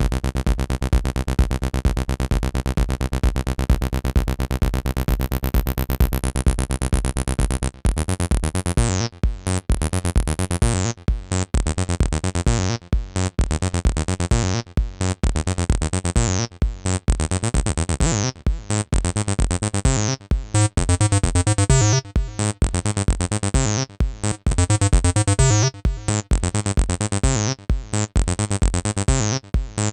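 Acid electronic jam played on the AcidMachine synthesizer: a fast, repeating synth sequence over a steady bass. About eight seconds in the pattern changes, with a downward sweep recurring roughly once a second.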